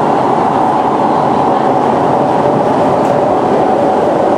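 Siemens C651 metro train running steadily along the line, a continuous even rumble and hum with no change in speed.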